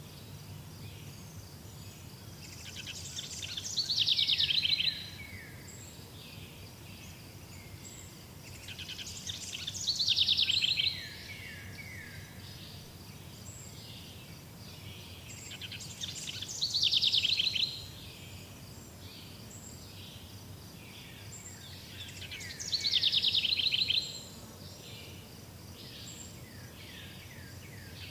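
A songbird repeating the same song about every six seconds, four times: each phrase is a couple of seconds of rapid high notes sliding downward. Behind it runs a steady, high pulsing insect trill and a low rumble.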